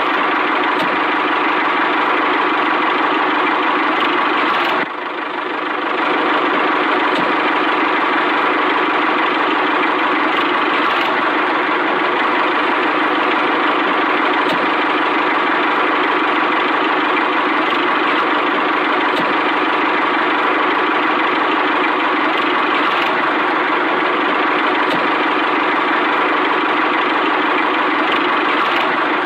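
Mini tractor engine running steadily, dipping briefly about five seconds in and then picking back up.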